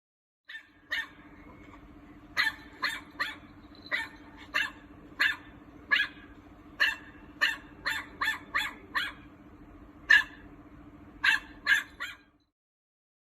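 A dog barking repeatedly, about twenty short barks at uneven intervals, over a steady low hum. The sound starts and stops abruptly.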